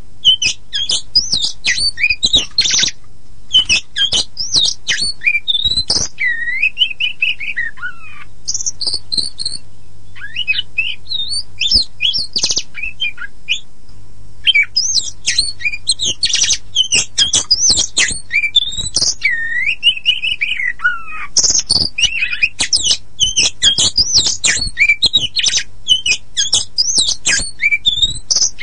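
Oriental magpie-robin (kacer poci) singing a fast, varied song of rapid chattering notes mixed with sliding whistles, broken by two short pauses near the middle.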